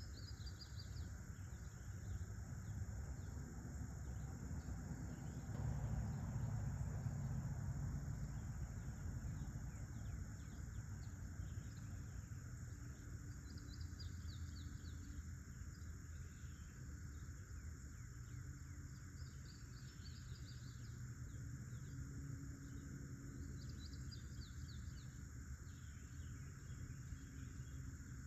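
Countryside ambience: a steady, high-pitched insect chorus of crickets, with a bird calling in short runs of quick chirps several times. A low rumble swells about six seconds in, then settles.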